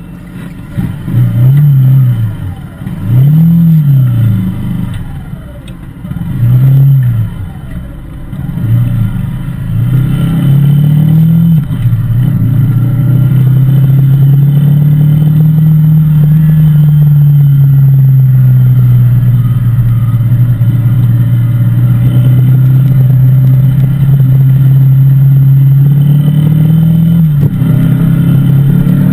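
Yamaha Fazer 150 Blueflex single-cylinder four-stroke engine through its stock exhaust, revved in place: four quick throttle blips that rise and fall in pitch, then held at raised revs for most of the rest, with a brief drop and pick-up near the end.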